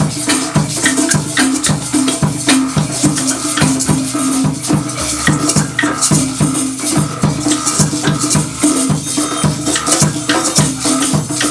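Drum and percussion ensemble playing a steady, fast groove: shakers rattling over drum strikes and a repeating low pitched pattern.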